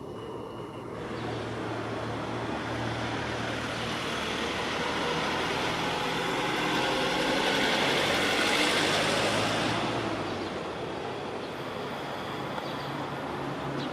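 A road vehicle driving past, its engine and tyre noise swelling to a peak about eight or nine seconds in and then fading away.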